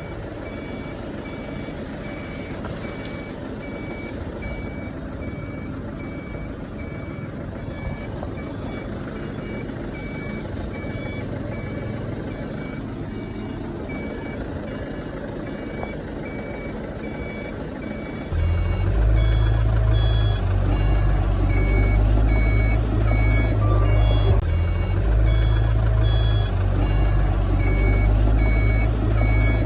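Reversing alarm of heavy earthmoving equipment beeping about twice a second over engine noise. About 18 seconds in, a much louder deep rumble comes in suddenly and continues.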